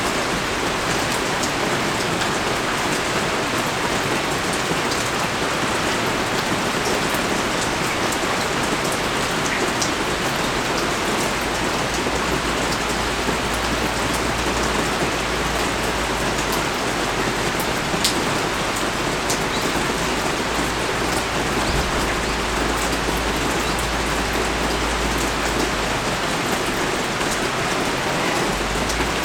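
Steady rain falling, with scattered single drops ticking close by. A low rumble runs underneath through the middle stretch.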